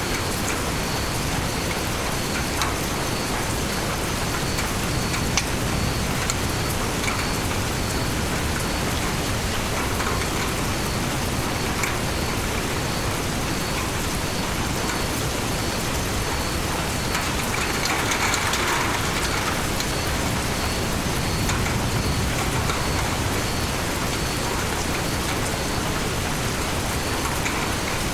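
Steady rainstorm with raindrops falling on leaves: a continuous hiss with scattered individual drop taps, swelling briefly louder about two-thirds of the way in. A faint high-pitched chirp repeats about once a second beneath it.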